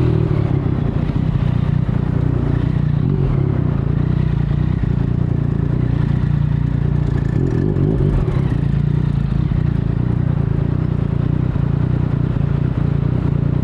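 2019 Yamaha MT-09's 847 cc inline three-cylinder engine running at steady revs through an Akrapovic carbon full-system exhaust with the dB killer removed.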